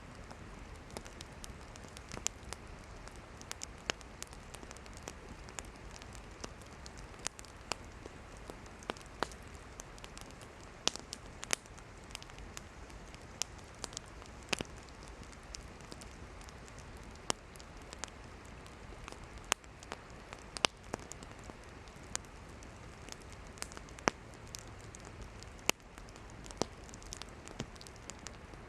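Campfire of burning firewood crackling: irregular sharp pops and snaps, several a second at times, over a steady soft hiss of the flames.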